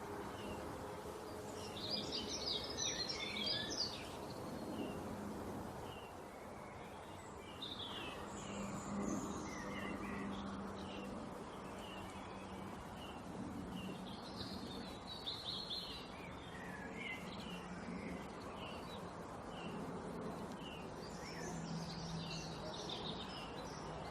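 Small songbirds chirping and twittering, with spells of rapid chirping about two seconds in, around eight and fifteen seconds in, and near the end. A steady low hum and background noise lie under the calls.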